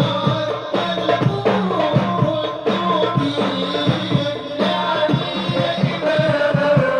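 Sholawat devotional singing by a group of voices, accompanied by steady hand-drum percussion.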